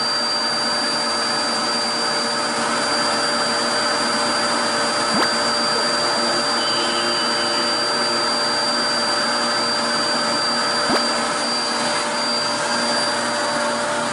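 Corded vacuum cleaner running steadily, with a constant high whine over its motor noise and a couple of faint ticks.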